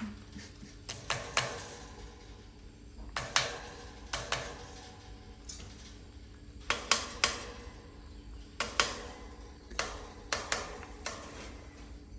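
Irregular sharp taps and knocks on a hard surface, about fifteen of them, often in quick pairs, each with a short ringing tail, over a low steady hum.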